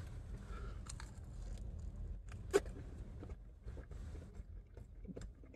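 A person chewing a bite of unbreaded blackened chicken tender: faint, scattered mouth clicks over a low steady hum, with one sharper click about two and a half seconds in.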